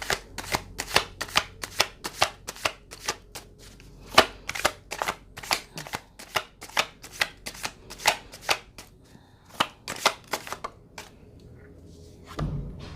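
A tarot deck being shuffled by hand: a quick, uneven run of sharp card slaps, several a second, that stops about eleven seconds in, followed by a soft low thump near the end.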